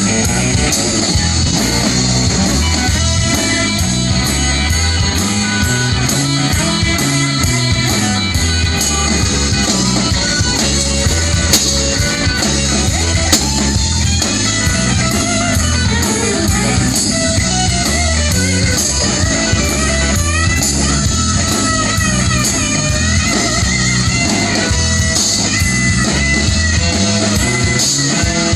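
A rock band playing an instrumental stretch, with guitar to the fore over bass and a steady beat.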